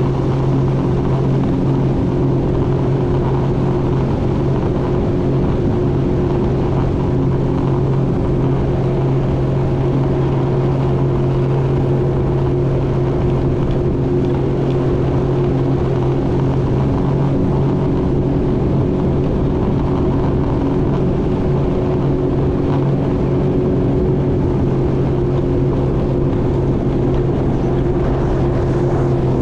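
Jet ski engine running at a steady speed, holding an unchanging pitch throughout, over a constant rushing noise.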